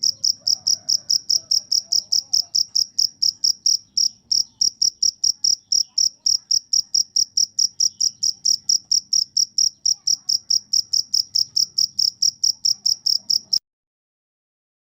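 Singing insect, cricket or katydid type, chirping in a steady high-pitched pulse about five times a second, stopping abruptly about a second and a half before the end.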